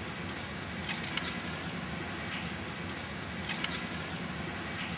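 Small bird chirping: a short, very high chirp repeated about every second and a half, five times, with a few fainter falling whistles in between.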